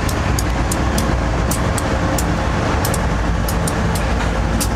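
BNSF diesel-electric locomotives passing close by under power in a loaded coal train: a steady diesel engine rumble with the rolling noise of steel wheels on rail, and sharp clicks about three times a second, irregularly spaced.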